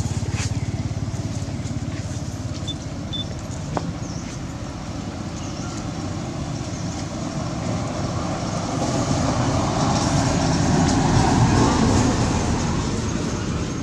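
A motor vehicle's engine rumbling steadily, swelling louder about two-thirds of the way in, with a single click near the start.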